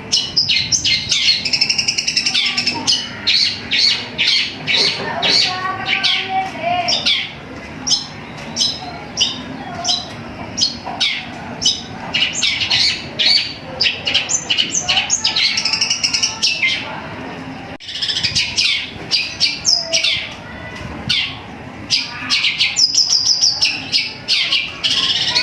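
Long-tailed shrike (cendet) singing in rapid runs of sharp high chirps and warbled phrases, mixing in sparrow-like chirps from its mimicked repertoire. There is a brief lull about two-thirds of the way through.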